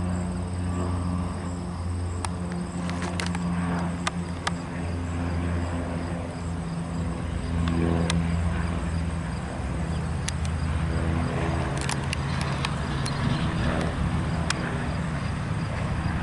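A steady low engine drone that fades in and out, with insects trilling high and steady behind it and a few scattered sharp clicks.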